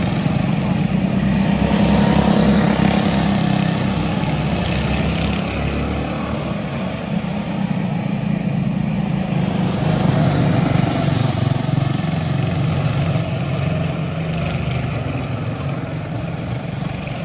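Small single-cylinder quarter midget race car engines running at speed on the track, their loudness swelling and easing.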